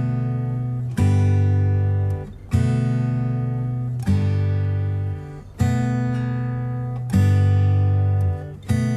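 Background music: strummed acoustic guitar chords, a new chord about every one and a half seconds, each ringing and dying away.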